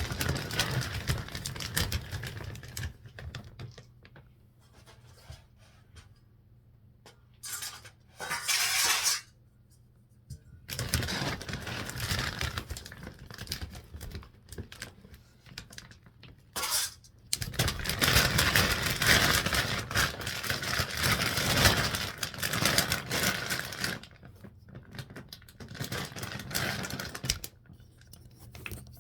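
Dry dog food (kibble) rattling and clattering as it is poured into bowls, in several long bursts with quieter gaps between.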